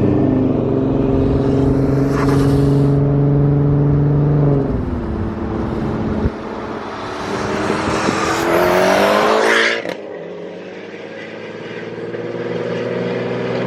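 Infiniti Q50's engine held at high revs, easing off about four and a half seconds in. It then revs up again in a rising glide with a hiss alongside, cuts back sharply near ten seconds, and settles into a lower note that slowly climbs.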